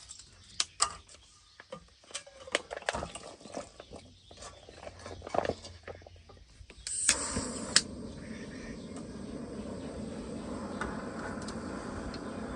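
Small clicks and knocks of camp cookware and utensils being handled. About seven seconds in, this gives way suddenly to a steady hiss.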